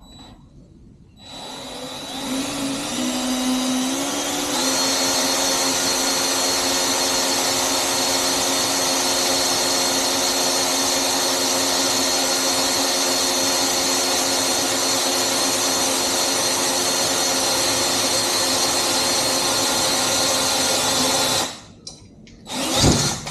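Electric drill boring a small pilot hole into a hollow metal motorbike swing arm tube, with lubricant on the bit. It starts about a second in, speeds up to a higher whine over the next few seconds, runs steadily, and stops about 21 seconds in.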